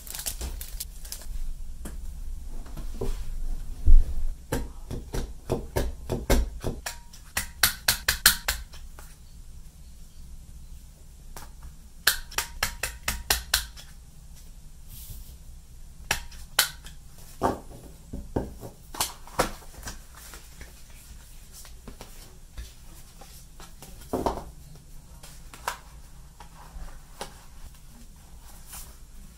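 Sharp clicks and snaps of a handheld corner-rounder paper punch cutting the corners of sticker sheets, mixed with paper handling on a desk. The clicks come in quick runs about six to eight seconds in and again around twelve to fourteen seconds, then as scattered single clicks; a dull thump about four seconds in is the loudest sound.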